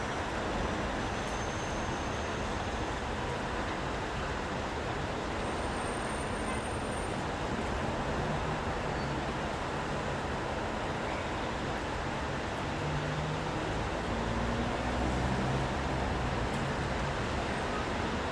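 City street traffic in the rain: a steady hiss with the low hum of vehicle engines, one vehicle growing louder and passing about two-thirds of the way through.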